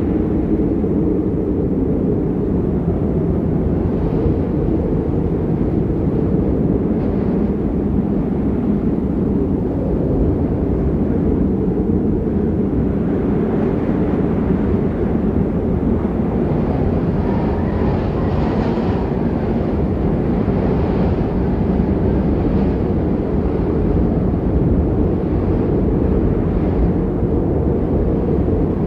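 Winter storm wind buffeting the microphone: a steady low rumble, with a hissier stretch of stronger gusts in the middle.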